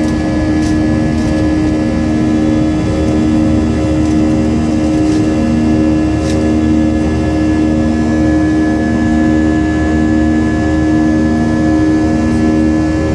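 Boeing 737 twin jet engines running steadily with a constant hum and rush of air, with a slow regular throb about once a second.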